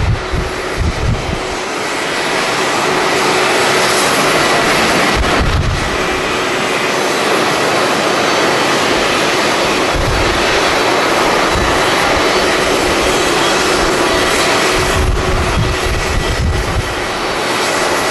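Jet airliner engines running with a loud, steady roar. Deep rumbles of wind buffeting the microphone come and go in gusts.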